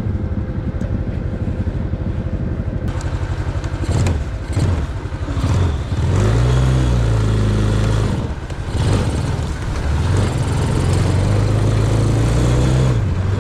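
A small off-road vehicle engine being ridden, its pitch climbing and dropping with the throttle. The revs rise about six seconds in, drop back, then climb again and hold before easing off near the end.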